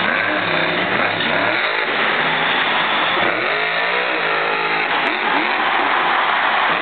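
Monster truck's big supercharged V8 revving hard again and again, its pitch rising and falling in quick swells, over a dense wash of noise.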